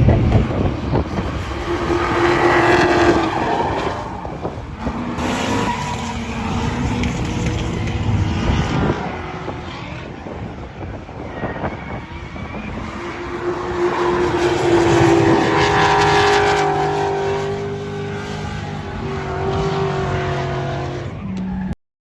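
Gen 3 5.3-litre LS V8, swapped into an E46 BMW drift car, running and revving, its pitch rising and falling several times. The sound cuts off suddenly near the end.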